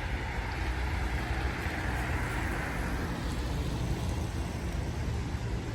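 Street traffic noise: a steady low rumble with a vehicle passing, its hiss swelling about two seconds in and then fading.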